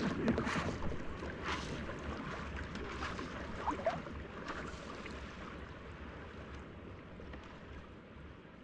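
Water splashing and lapping with wind on the microphone, a few louder splashes in the first couple of seconds, fading away toward the end.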